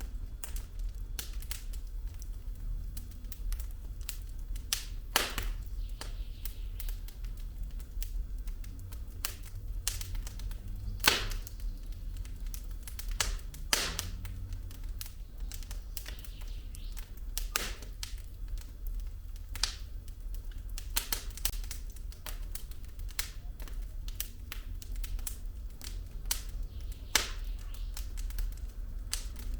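Wood fire burning in a fireplace: logs crackling with irregular small clicks and occasional sharper pops, over a steady low rumble of the flames. A few of the pops stand out clearly louder, about five, eleven and fourteen seconds in.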